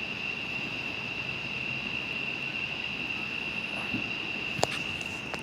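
Night-time outdoor ambience: a steady high-pitched insect drone, with one sharp firework pop about four and a half seconds in and a fainter pop just after.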